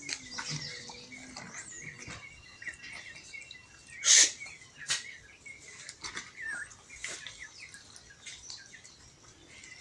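Small birds chirping faintly in the background, with one brief louder noise about four seconds in and a fainter one just after.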